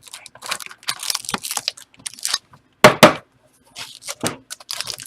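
Card packs and their wrappers and cardboard being handled and torn open: irregular crinkling and ripping, with one louder rip about three seconds in.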